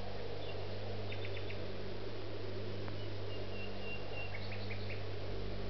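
Birds chirping faintly in scattered short calls, with one thin held whistle about three seconds in, over the steady hiss and hum of an old film soundtrack.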